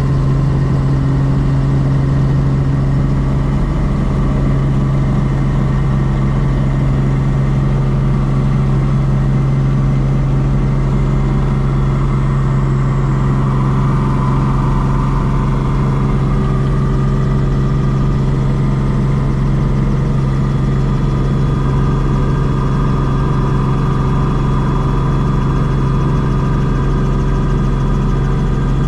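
Helicopter in flight: a loud, steady drone of engine and rotor with a strong low hum and several fainter higher tones that hold steady throughout.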